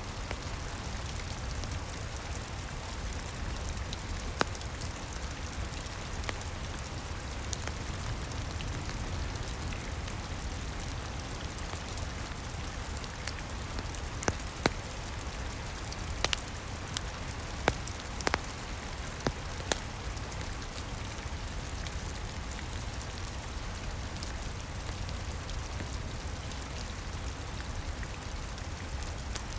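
Steady rain with a low rumble beneath it, and occasional sharp pops of a crackling wood fire, a small cluster of them about halfway through.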